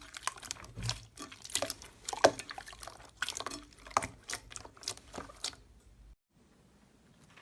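Slime being squeezed and worked by hand, giving a quick, irregular run of wet clicks and pops that stops about five and a half seconds in.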